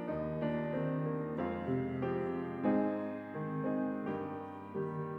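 Piano playing a slow, gentle piece: chords struck one after another, each ringing and fading before the next.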